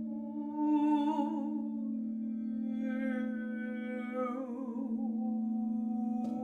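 A woman's wordless humming in two long wavering phrases, held over the steady drone of ringing singing bowls; a bowl is struck again near the end.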